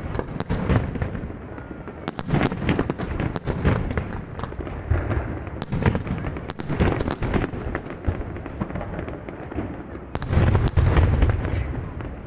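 Aerial fireworks display: a continuous barrage of shell bursts and crackling bangs at irregular intervals, with a heavier run of deep booms near the end.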